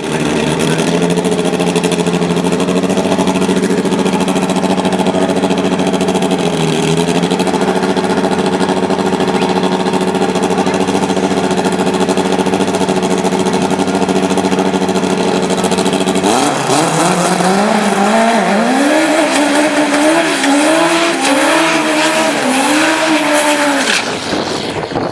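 Drag race car's engine held at steady revs for about sixteen seconds, then making a full-throttle pass: the pitch climbs and falls back several times as it shifts up through the gears for about seven seconds, and the sound drops away near the end.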